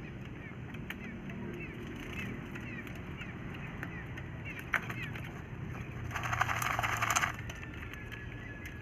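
A quail dust-bathing: a scratchy rustling burst about six seconds in, lasting just over a second, as it works loose soil through its feathers, with a sharp click shortly before. Short quick chirps from small birds run throughout over a low background hum.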